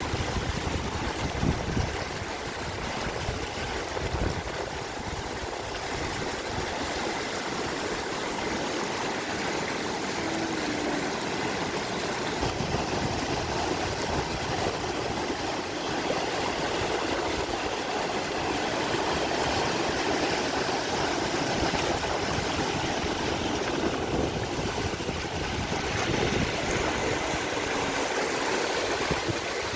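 Street fountain cascade: water falling and splashing steadily, with a few low thumps near the start.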